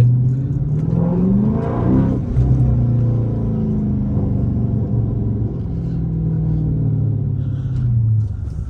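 Chrysler 300's 5.7-litre Hemi V8 driving. The engine note climbs as it accelerates about a second in, then holds a steady low hum, easing off near the end.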